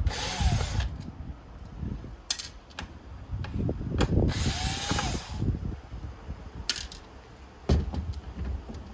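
Electric screwdriver with a T10 Torx bit spinning out the two screws that hold the iMac's hard drive: two short runs of about a second, near the start and about halfway through. Sharp clicks and knocks of the screws and metal parts being handled fall between them.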